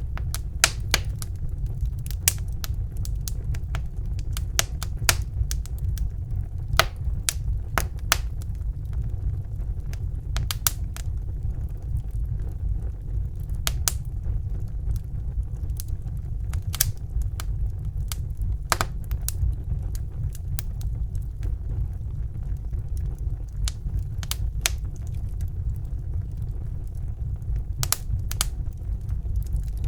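Wood fire burning in a fireplace: a steady low rumble of flames with sharp crackles and pops at irregular moments.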